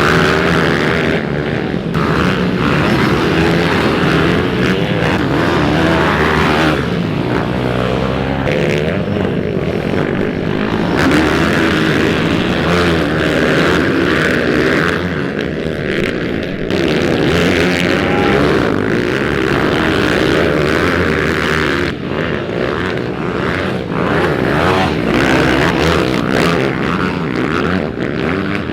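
Pit bike engine revving hard during a race, its pitch rising and falling over and over as the throttle is worked.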